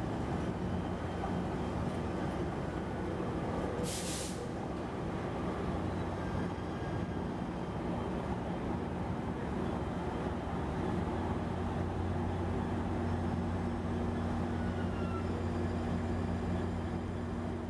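San Diego Trolley light rail vehicle running with a steady electric hum, with a short hiss of released air about four seconds in.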